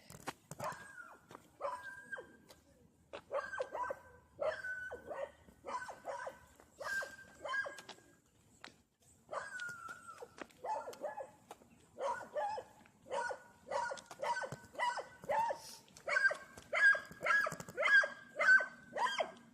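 Dogs barking from behind a fence: bouts of short, sharp barks with a brief pause partway through, getting louder and faster near the end.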